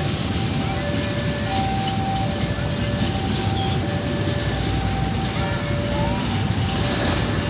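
A passenger train hauled by a diesel-electric locomotive running by with a steady rumble of wheels and engine. A repeating electronic two-note tone alternates over it about once a second.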